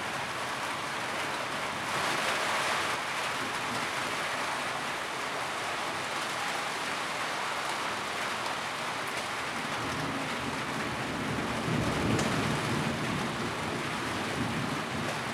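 Steady rain pattering on a tin roof, briefly heavier about two seconds in. A low rumble swells under it around twelve seconds in.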